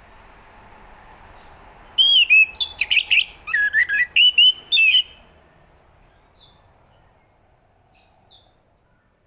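Chestnut-capped thrush singing: a burst of rapid, varied clear notes that sweep up and down, starting about two seconds in and lasting about three seconds, then a couple of faint short notes.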